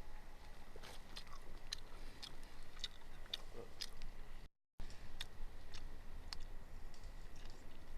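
Irregular sharp clicks and crackles, about two a second, over a faint steady high-pitched tone; the sound cuts out completely for a moment about halfway through.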